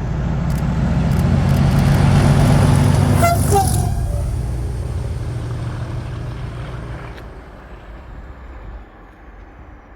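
Class 37 diesel-electric locomotive with its English Electric V12 engine passing by, its deep engine note building to a peak a couple of seconds in and then fading as it runs away. There is a brief falling tone about three seconds in.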